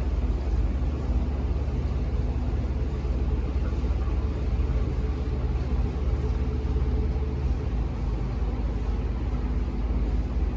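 Steady low engine drone, an even rumble with a constant hum that does not change in pitch.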